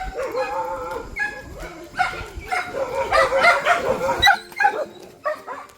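Several dogs fighting: overlapping barking, snarling and yelping that grows most intense near the middle, then breaks into a few separate yelps and barks.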